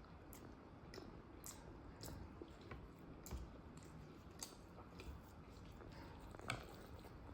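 A person chewing food close to the microphone, with soft, irregular wet mouth clicks and smacks; one sharper click comes about six and a half seconds in.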